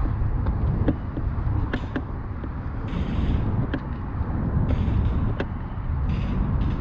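Steady low rumble of a vehicle running, with scattered knocks and creaks and a few short hissing bursts.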